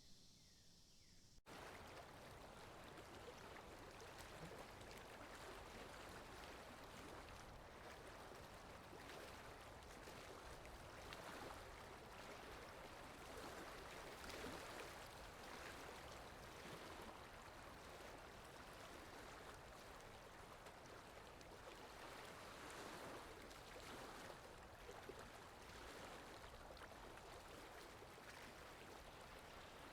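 Soft, steady rain hiss with no distinct drops or events. It follows a brief thin, high forest ambience that cuts off abruptly about a second and a half in, an edit seam in the recording.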